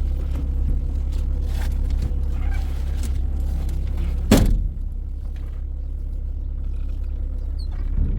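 A motor vehicle's engine running steadily with a low hum, and one sharp thump a little past halfway.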